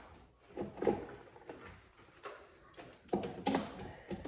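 Irregular short knocks and clacks, about half a dozen, from hard objects being handled during work on a car.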